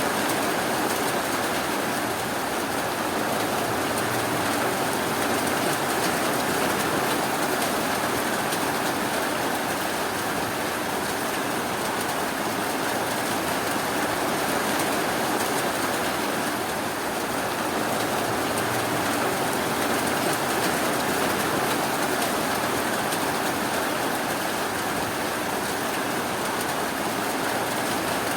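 Steady rainfall, an even hiss that holds level throughout with no thunder.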